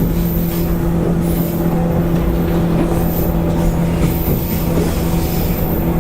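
JR East 185 series electric train heard from inside motor car MoHa 184-18 while running: a steady hum from the traction motor and gears, holding one pitch at constant speed, over continuous wheel and rail rumble.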